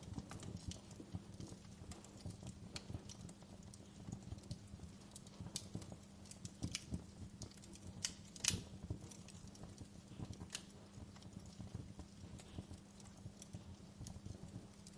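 Wood fire in a fireplace crackling: irregular sharp pops and snaps over a steady low rumble, with one louder pop about eight and a half seconds in.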